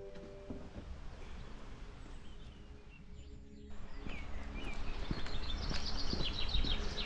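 Small birds chirping and singing in rapid runs of high notes, busiest in the second half, over a low steady rumble of outdoor noise. A music bed fades out in the first moment.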